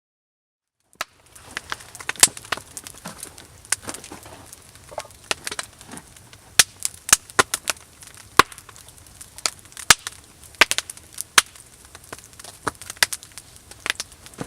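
Wood fire crackling, with irregular sharp pops and snaps of varying loudness over a faint low rushing, starting after about a second of silence.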